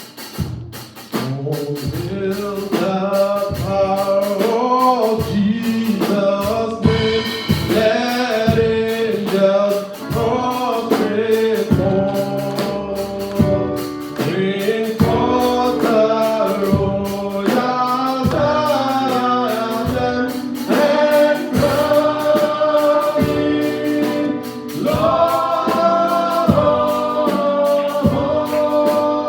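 Gospel praise-and-worship music: voices singing together over a band with a steady beat, starting about a second in.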